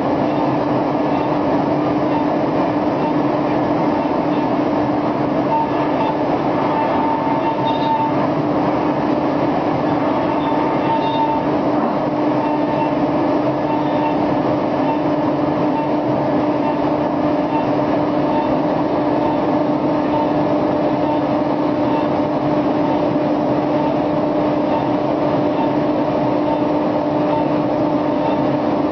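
Hermle C30 five-axis CNC milling machine cutting a wheel: a steady, pitched whine over continuous cutting noise. A higher tone comes and goes between about six and eleven seconds in.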